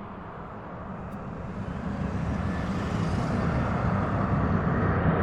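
Jet engines of a Boeing 737 airliner coming in to land, a steady rumble and hiss growing louder as it draws nearer.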